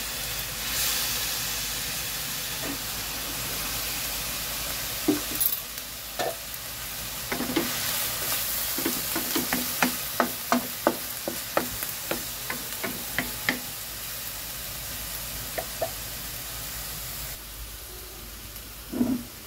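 Banana blossom sautéing in a hot wok, a steady sizzle, as soy sauce goes in. A spatula stirring it scrapes and clicks against the wok in a quick run of short taps through the middle; near the end the sizzle drops away and a couple of knocks follow.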